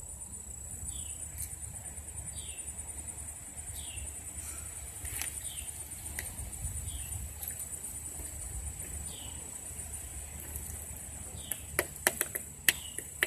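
Outdoor ambience: a steady, fast-pulsing high insect trill with a short falling bird chirp repeating every second or two, over a low rumble. A few sharp clicks come near the end.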